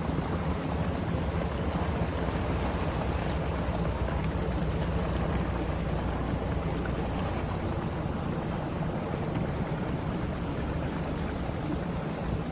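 Motorboat engine running steadily at speed, a low constant hum under the rush of water and wind.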